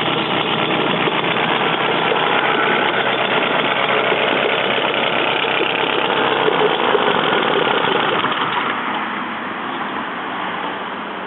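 British Seagull Century outboard's single-cylinder two-stroke engine running steadily, its level dropping somewhat about three quarters of the way through.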